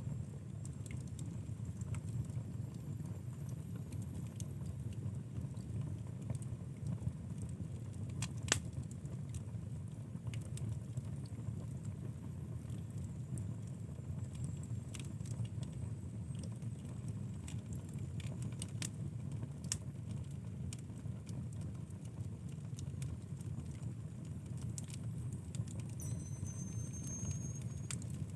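Wood fire burning in a fireplace: a steady low rumble of flames with scattered crackles and pops, one sharper pop about eight seconds in. Near the end a faint high whistle joins in.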